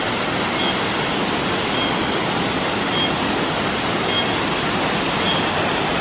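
Steady rush of water from Hiji Falls, a tall waterfall dropping onto rocks.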